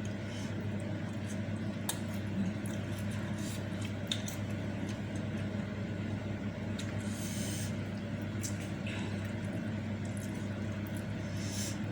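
A person eating meatball soup with noodles: chewing and short slurping sounds with small clicks, over a steady low hum.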